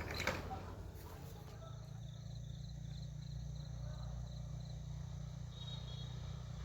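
Insects chirping, a faint high pulsing trill at about four pulses a second, over a steady low hum. A few knocks in the first second.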